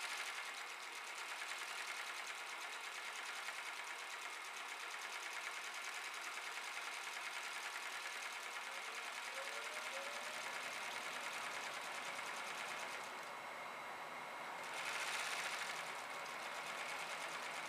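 1945 Merrow A-3DW overlock sewing machine running, its needle and loopers stitching a merrowed edge around a round patch with a fast, even mechanical chatter. The chatter starts at once and holds steady, with a short louder spell about three-quarters of the way through.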